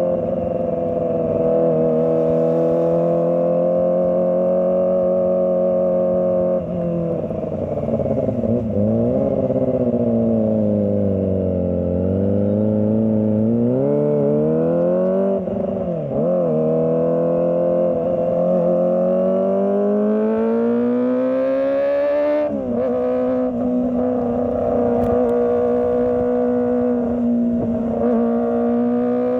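Kawasaki ZX-25R's 249 cc inline-four engine running under the rider's throttle: the note holds steady, then sinks and rises again, with short dips and a sudden drop about two-thirds through like gear changes, before it climbs and steadies.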